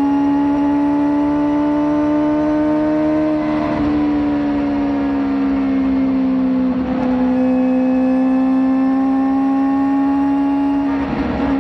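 Kawasaki ZX-4RR's 399 cc inline-four running at high revs through an aftermarket slip-on exhaust, its high, steady note drifting slowly in pitch. The note breaks briefly about four and seven seconds in and again near the end.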